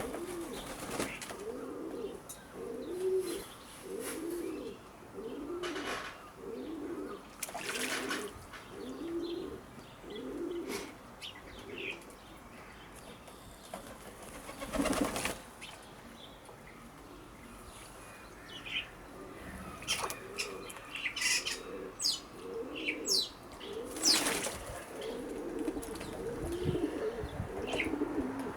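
Doves cooing over and over in a low, even rhythm, broken by a few loud bursts of wing flapping as the birds bathe. Small birds chirp briefly in the background past the middle.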